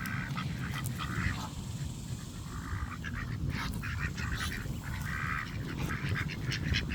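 A group of ducks quacking in short bursts around the feeding hand, with scattered sharp clicks and a steady low rumble underneath.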